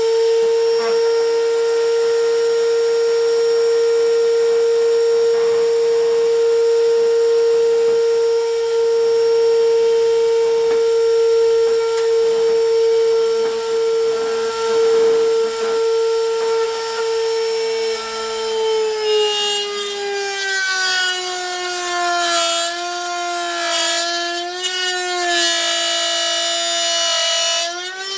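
A router in a homemade router table, running with a high, steady whine while it cuts slots for glass into picture-frame pieces. About two-thirds of the way in the whine drops in pitch and wavers, as the motor slows under the load of the cut.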